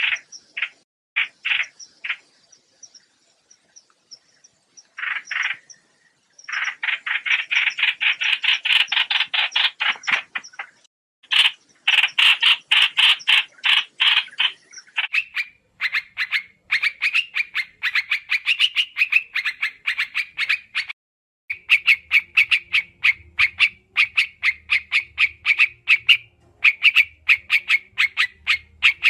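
White-eye (trao trảo) singing in fast chattering trills of short, rapidly repeated notes, in bouts broken by short pauses. A faint low hum comes in under the song about two-thirds of the way through.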